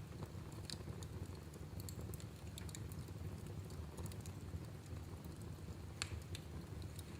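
Wood fire burning in a fireplace, crackling with irregular small snaps and pops over a low steady rumble of the flames, with one sharper pop about six seconds in.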